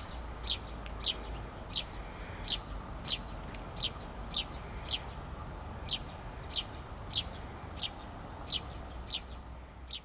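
A small songbird calling over and over with short, high chirps that slide downward, about one every half second at a fairly even pace. A low steady rumble lies underneath.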